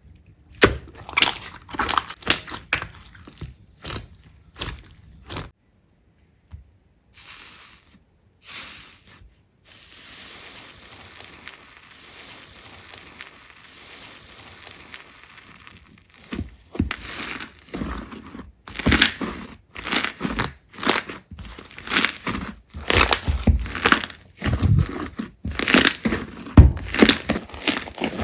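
Slime being squeezed and pressed by hand, giving rapid crackling and popping squelches. It pauses briefly about five seconds in, goes to a soft steady hiss in the middle, and turns to fast bursts of crackling over the last third.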